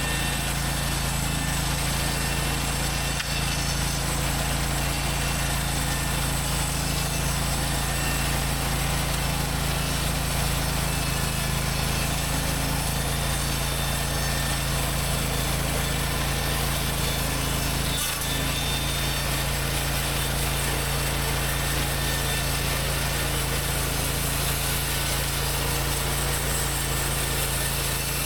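Hud-Son HFE-33 portable bandsaw mill running steadily, its engine and band blade sawing through a log. The blade is cutting dry, with its water lubrication left off, which makes the cut rough.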